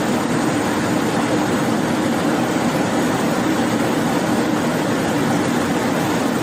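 Steady rushing noise inside the cockpit of a Boeing Business Jet on approach in heavy rain, with a constant low hum underneath and no change in level.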